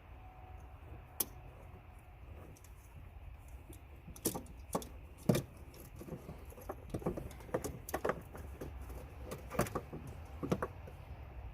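Hand tools and metal parts clinking and clicking irregularly, a dozen or so sharp knocks from about four seconds in, over a faint low hum.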